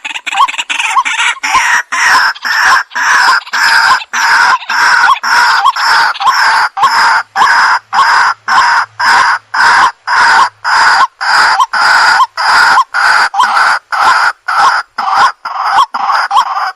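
Waterhen (jal murgi) calling: a rapid, even string of harsh, clucking calls, about two to three a second, each call short and separated by clean gaps.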